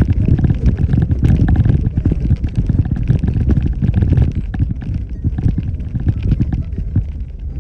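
Jeep Wrangler Rubicon driving through water, its tyres splashing and churning under a low engine rumble; the noise eases a little about halfway through.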